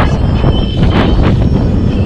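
Strong gusting wind buffeting the microphone, a heavy, uneven low rumble, with a couple of brief knocks about a second in.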